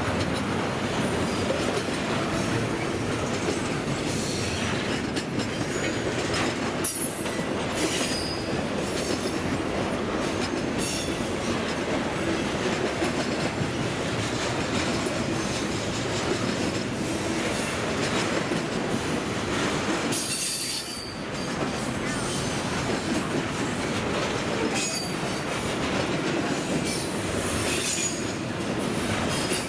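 Norfolk Southern intermodal freight train rolling past: steel wheels running on the rails, with high wheel squeals now and then and a brief lull about two-thirds of the way through.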